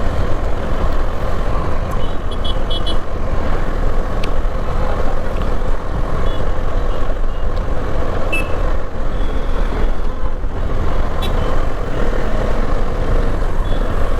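Bajaj Dominar 400 motorcycle riding in city traffic: a steady loud rumble of engine and wind, with short high-pitched beeps from other vehicles a few times, a rapid string of them about two seconds in.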